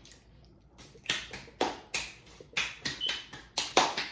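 Crunchy fried fish and chips being bitten and chewed close to the microphone: a run of about a dozen irregular crisp crackles and clicks, starting about a second in.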